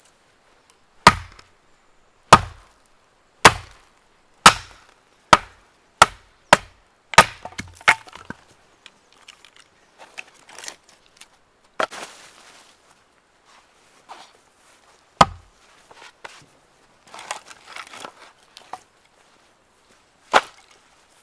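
Firewood being split or chopped with sharp wooden strikes, about one a second for the first eight seconds and coming slightly faster toward the end of the run. Softer handling and splintering sounds follow, then two more single strikes, one just past the middle and one near the end.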